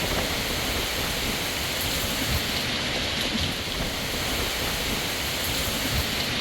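Steady hurricane wind and rain noise, with gusts rumbling irregularly on the microphone.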